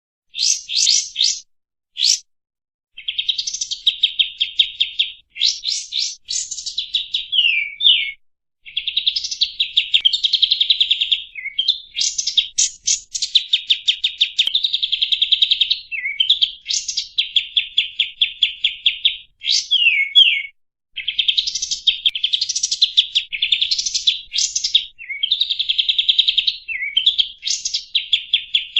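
Recorded songbird 'rol speed' masteran song: long, rapid trills of high notes, broken by quick downward-slurring whistles and short pauses, played to tutor cage songbirds such as the white-rumped shama.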